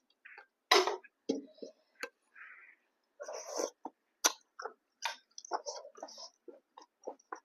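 Close-miked eating: chewing and mouth smacks, an irregular run of short clicks and brief bursts, the loudest a little under a second in.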